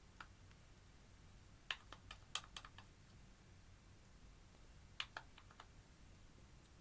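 Light, sharp clicks and taps of handled makeup packaging: one, then a quick run of about six, then a shorter run of about five a few seconds later.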